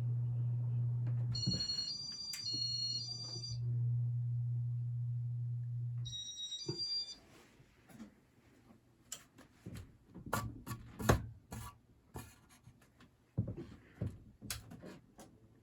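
Ceiling fan motor running with a steady low hum that stops about six seconds in, overlaid by two short runs of electronic beeping tones at several pitches. After that it is quiet, with scattered clicks and knocks.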